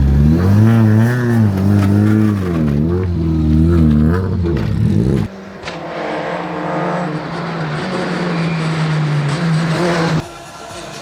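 Peugeot 208 R2 rally car's 1.6-litre four-cylinder engine revving hard, its pitch rising and falling with throttle and gear changes. About five seconds in the sound drops suddenly to a quieter, steadier engine note, and it drops again near the end.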